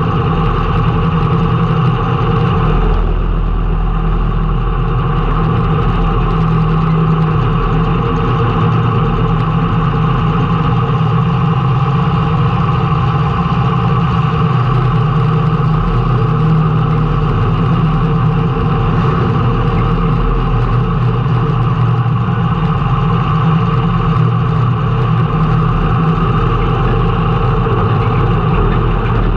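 Race car engine running steadily, heard from an in-car camera, its pitch holding nearly level with no big revs.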